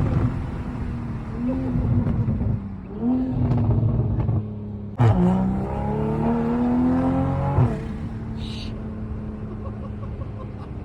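Toyota Supra (A90) with an aftermarket exhaust, revving in two short pulls and then one longer acceleration about five seconds in. In that pull the exhaust note climbs steadily for about two and a half seconds, then drops back to a steady cruising drone.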